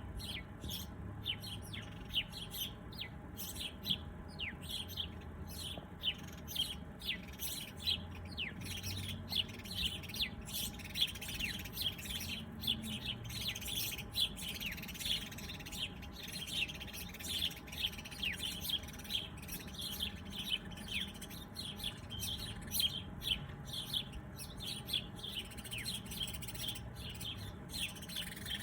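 Many small birds chirping together in a dense, continuous chorus of quick, short downward-sliding chirps, over a faint low rumble.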